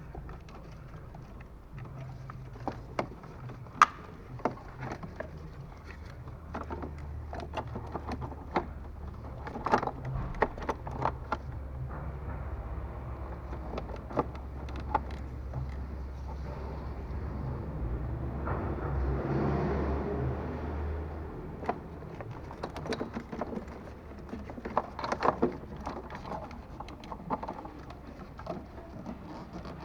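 Scattered sharp clicks and knocks over a steady low hum, with a broader swell in the sound about two-thirds of the way through.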